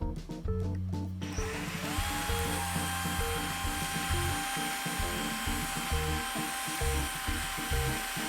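A 10.8V cordless drill driver's motor spins up about a second in and then runs at a steady whine, over background music.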